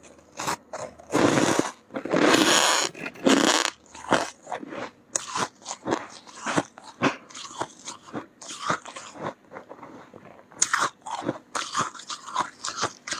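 Close-miked biting and chewing of soft, powdery freezer frost, crunching loudly. A run of loud bites about a second in is followed by a steady stream of smaller chewing crunches.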